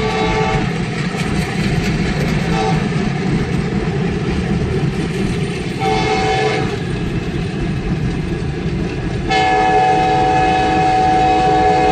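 Air horn of an Arkansas & Missouri Railroad Alco C424 diesel locomotive sounding a multi-note chord. One blast ends just after the start, a short toot comes a couple of seconds in, another about six seconds in, and a long blast runs from about nine seconds in. A steady low rumble runs underneath.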